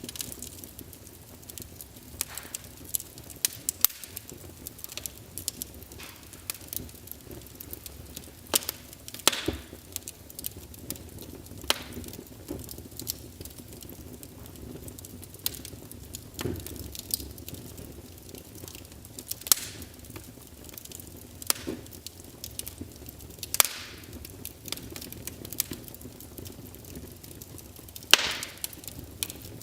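Burning logs crackling in a fireplace: irregular sharp pops and snaps over a steady low rush of the fire, a handful of them much louder than the rest.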